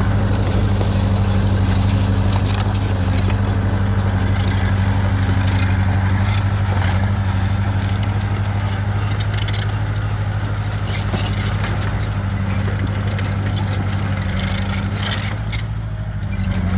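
Bulldozer's diesel engine running steadily, with a continuous metallic clinking and rattling over it.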